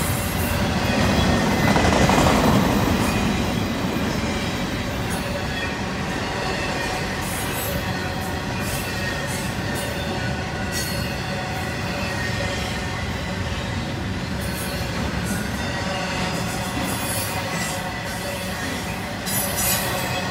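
Intermodal container freight train rolling past: steel wheels rumbling over the rails with scattered clicks and a faint steady wheel squeal. Loudest about two seconds in, then holding steady.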